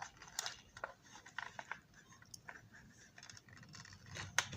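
Irregular light clicks and taps of small plastic model-car parts being handled and fitted by hand, with a sharper click near the start and another about four seconds in.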